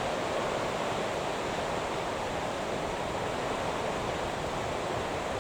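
Steady, even hiss of noise with no tones or rhythm.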